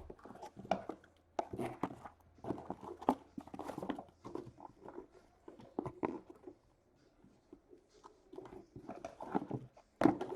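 Cardboard hobby boxes being pulled from a case and set down: irregular rustles, scrapes and soft knocks, with a short lull near the end.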